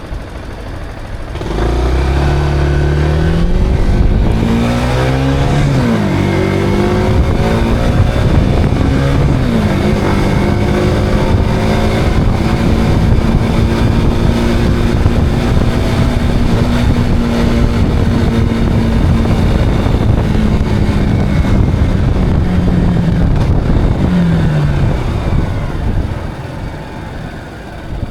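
Zontes cruiser motorcycle engine pulling away and revving up through two gear changes, then holding a steady cruising note. Near the end the revs fall as the throttle is closed and it slows.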